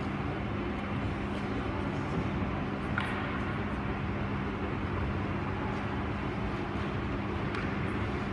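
Ice hockey rink ambience during a game: a steady hum and wash of noise, with a few sharp knocks of sticks and puck, the clearest about three seconds in.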